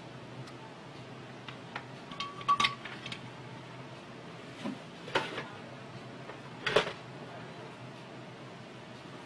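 Scattered clicks and clinks of small hard parts and tools being handled, in a few short clusters. The loudest come about two and a half seconds in, with a brief ring, and again near seven seconds.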